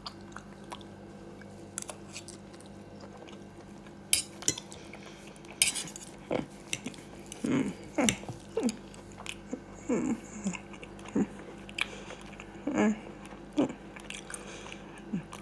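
A person eating a meal: cutlery clicking against a plate a couple of times, then a run of short chewing and mouth sounds.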